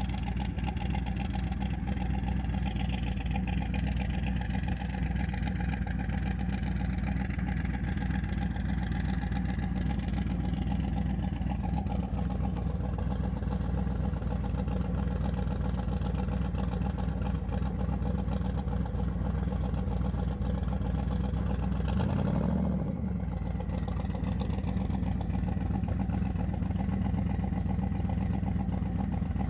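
Twin-turbo LS V8 in a Chevy S10 pickup running steadily, with a brief rise in pitch about 22 seconds in.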